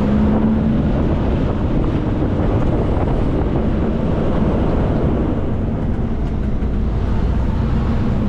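Diesel engine and road noise of a Kenworth K200 cabover truck with a Cummins engine, heard steadily from inside the cab while driving, with a low hum that fades in and out.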